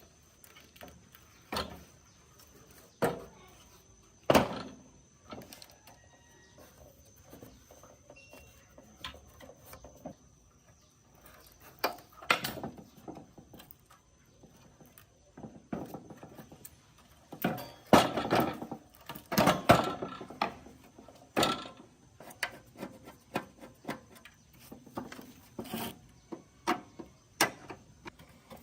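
Irregular knocks, clicks and scrapes of hand work on the metal parts of a rusty gas water heater, with a busy stretch of louder clattering about two thirds of the way through.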